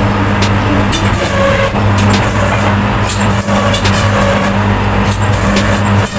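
Slicer-planer machine running with a steady low hum, a rough mechanical clatter and scattered sharp clicks.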